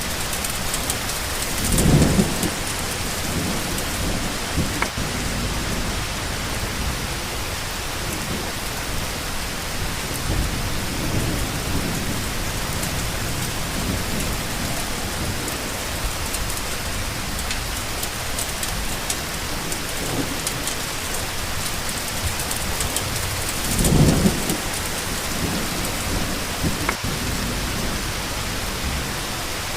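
Steady rain falling, with low rumbles of thunder: a louder roll about two seconds in and another a little before the end, and fainter rumbles in between.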